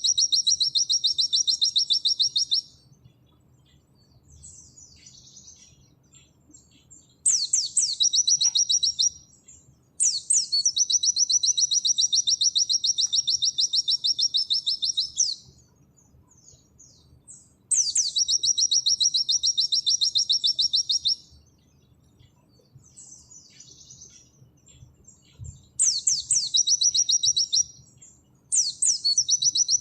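White-eye (pleci) singing its long rapid 'nembak' song: phrases of a fast, even run of high repeated notes, each opening with a sharp downward sweep and lasting two to five seconds. Softer twittering fills the pauses between phrases.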